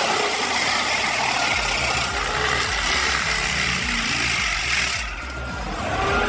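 A heavy machine's engine running steadily under load, with a dense hissing, grinding noise that eases off about five seconds in; background music plays underneath.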